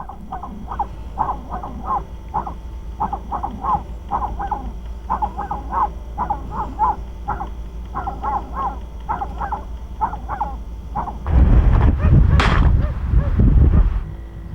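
A hunting terrier barking in quick, repeated yaps while working a fox den. About eleven seconds in, a loud rush of noise breaks in, with a single sharp shotgun shot in it.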